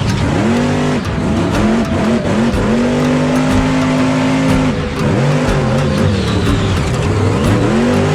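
Monster truck engine revving, its pitch climbing and falling several times, with a long steady hold in the middle.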